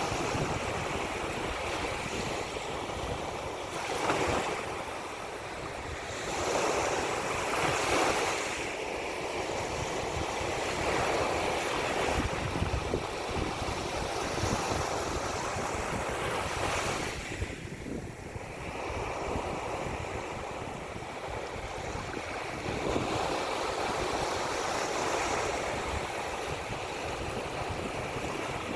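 Ocean surf washing ashore in repeated swells, several waves rising and falling in turn, with wind buffeting the microphone.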